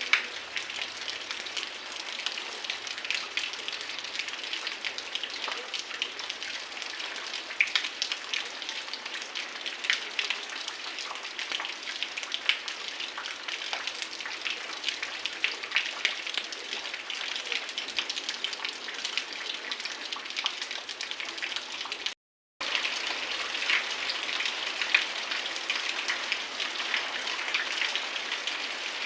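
Heavy rain falling steadily, with a dense hiss crowded with many close, sharp drop hits. The sound cuts out completely for a split second about three quarters of the way through.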